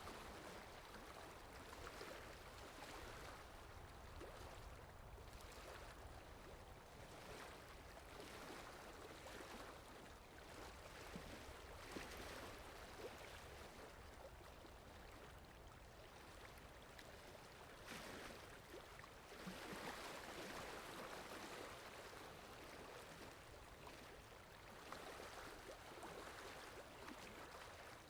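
Faint flowing-water ambience, a steady wash of running water that swells and eases every few seconds.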